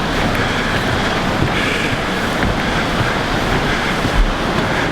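Steady, loud rush of water from the Doubs river below the Saut du Doubs waterfall.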